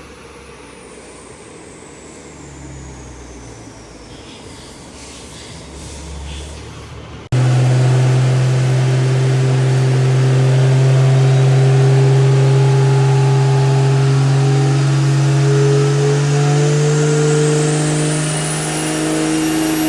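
Third-generation diesel pickup engine on a chassis dyno. At first it runs quietly with a thin whine falling in pitch. About seven seconds in it jumps abruptly to a loud, steady high-load run that climbs slightly near the end: a full-power dyno pull.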